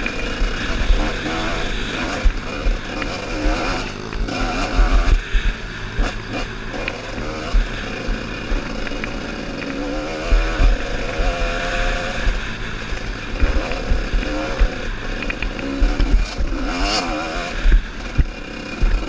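Off-road trail motorcycle engine revving up and down repeatedly, its pitch rising and falling, with low rumbling knocks throughout.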